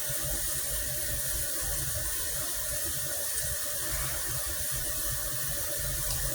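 Hot water tap running steadily into a sink, left on to warm up.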